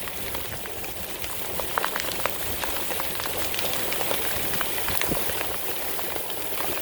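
Heavy wind-driven rain pelting a car's roof and windows, heard from inside the car: a dense, steady hiss with many sharp individual drop strikes.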